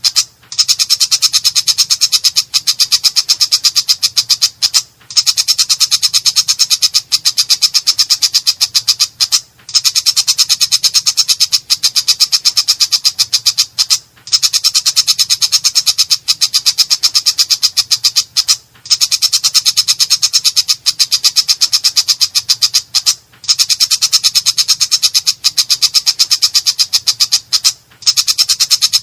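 Long-tailed shrike (cendet) giving a harsh, rapid rasping chatter, high-pitched, in bouts of about four to five seconds separated by brief pauses.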